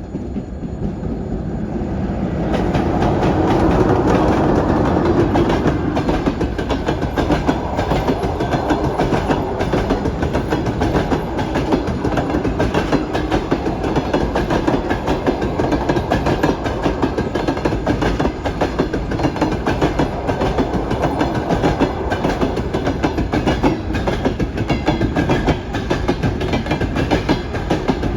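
Wheels of a passenger train hauled by an EP1M electric locomotive clattering over the rail joints as it runs past. The sound grows louder over the first few seconds, then settles into a steady, rapid clickety-clack over a rumble.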